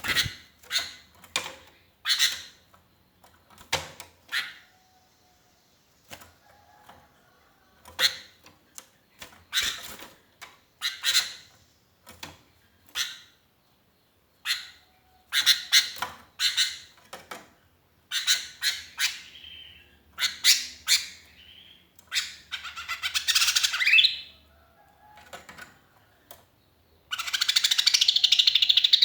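Sooty-headed bulbul (kutilang) giving a string of short, sharp calls, with two longer harsh chattering runs near the end. A lone bird calling for companions.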